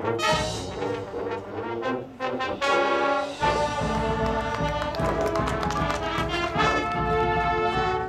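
High school marching band playing, with brass in front: a held brass chord about three seconds in, then the full band comes in with drums.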